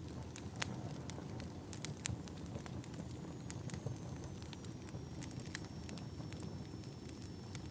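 Log fire crackling: irregular sharp pops and snaps over a low, steady rumble of burning wood. A faint thin high tone comes in about halfway.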